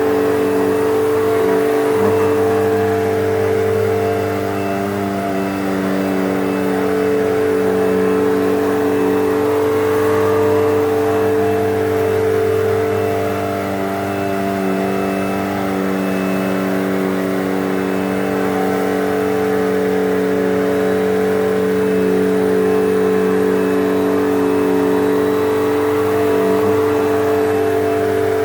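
Eureka Whirlwind Limited Plus bagless upright vacuum cleaner running steadily, its motor hum wavering slightly in pitch and level.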